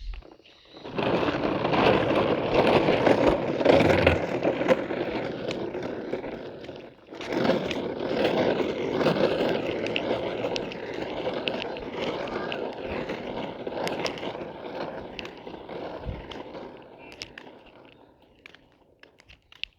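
Hard plastic wheels of a child's toy ride-on tractor rolling and scraping over rough ground. The rolling stops briefly about seven seconds in, starts again, and fades away near the end.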